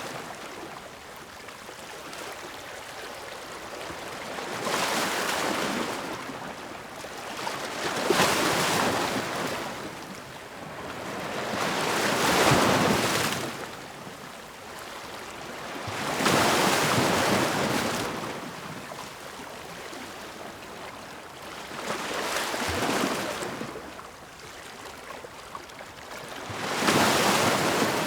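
Ocean waves breaking and washing up the shore. Each surge swells and fades, about six in all, spaced roughly four to five seconds apart.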